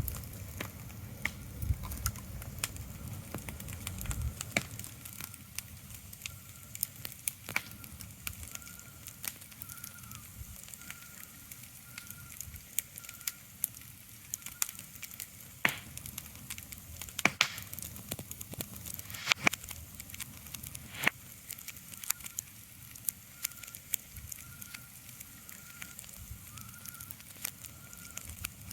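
Steady soft hiss scattered with sharp crackles and pops, under a faint high chirp that repeats on and off, with a low rumble in the first few seconds.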